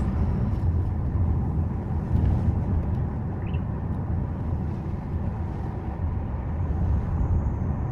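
Subaru Forester driving along a mountain road: a steady, low rumble of tyre and engine noise.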